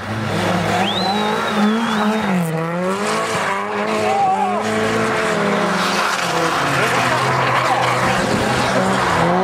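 A drift car's engine revving hard and unevenly, its pitch rising and falling as the car slides through the snow. A brief high whistle sounds about a second in, and spectators' voices are heard under the engine.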